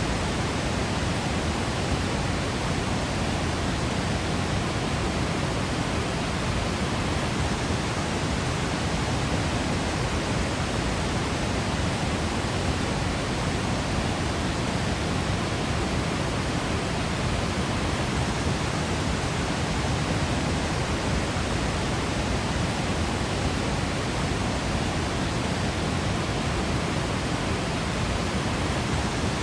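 Waterfall pouring: a steady, unbroken rush of falling water with a deep low rumble underneath.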